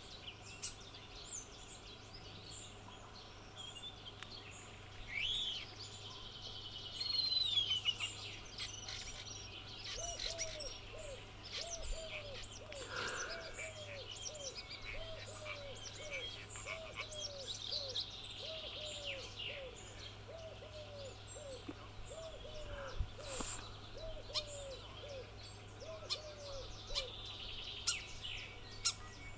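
Wild birds calling, with high chirps and whistles throughout. From about a third of the way in, one bird gives a steady series of low hoots, a little under two a second, for most of the rest.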